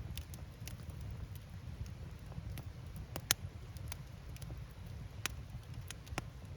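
Wood fire burning, a low steady rumble of flame with irregular crackles and pops as the firewood bursts. The sharpest pop comes about halfway through.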